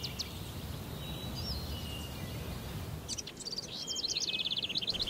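Birds chirping and whistling over a low steady outdoor hum, with a fast run of repeated chirps in the last two seconds.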